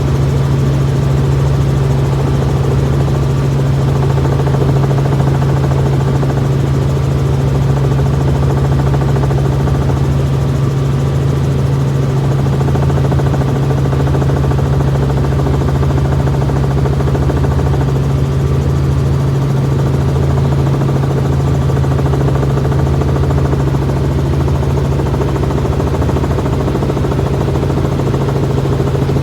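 Helicopter in flight, heard from inside the cabin: a loud, steady drone of rotor and engine, with a faint steady whine above it.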